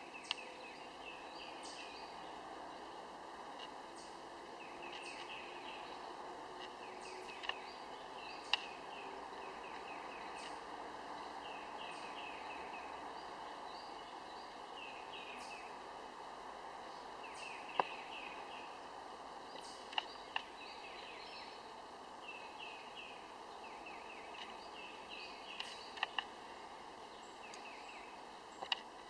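A bird singing, again and again, quick phrases of short high notes that slur downward, over a steady outdoor background noise. A dozen or so sharp clicks stand out above it at uneven moments.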